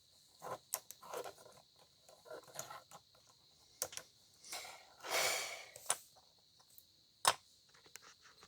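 Plastic Lego bricks being handled and snapped together: scattered small clicks and rattles, with a longer rustle about five seconds in.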